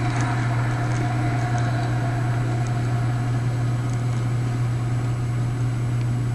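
Steady low mechanical hum, with a fainter higher tone that fades over the first few seconds.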